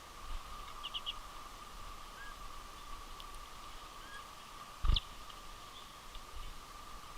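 Winter finches at a feeder giving scattered short chirps, a quick run of three high notes about a second in and a few soft upslurred calls. A single loud thump comes about five seconds in, over a steady faint high hum.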